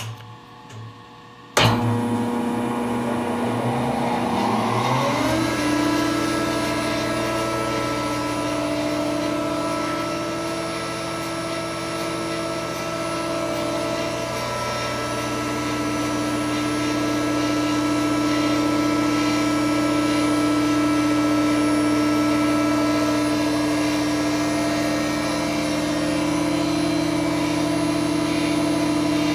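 SAC RS53S 20-inch planer's main motor switched on about a second and a half in; its whine rises as the cutterhead spins up for about four seconds, then the machine runs steadily at speed with no wood going through.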